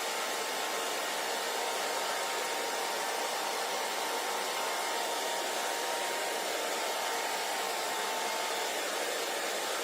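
Handheld hair dryer running steadily: a constant rush of blown air with a faint steady whine from the motor and fan.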